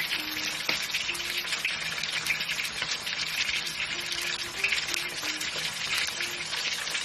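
Pieces of fish frying in hot oil in a pan, a steady sizzle with fine crackling.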